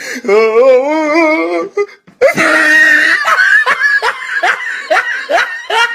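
A person laughing: a drawn-out, wavering laugh, then after a short break a long run of quick rhythmic laughing bursts.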